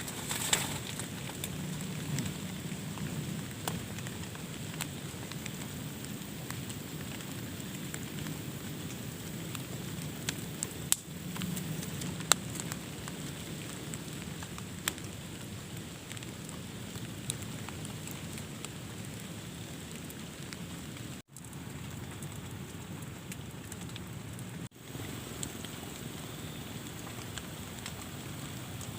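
Steady rain falling, with scattered sharper drop hits through it. The sound briefly cuts out twice past the middle.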